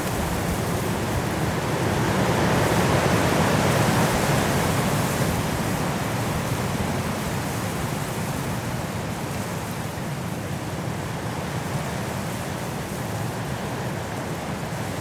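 Strong wind gusting through forest trees in a snowstorm, a steady rushing that swells into a louder gust a couple of seconds in and then slowly eases.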